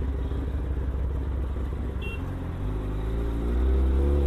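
Kawasaki ZX-10R superbike's inline-four engine running with a low rumble, then pulling up through the revs about two-thirds of the way in, rising in pitch and getting louder.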